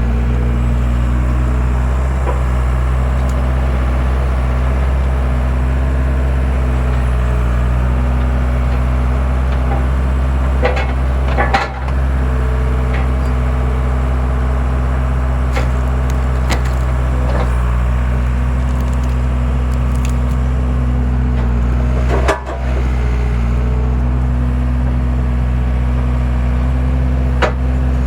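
Skid steer engine running steadily while a homemade wood splitter forces through logs, the wood cracking and splitting sharply a few times, most strongly about twelve and twenty-two seconds in.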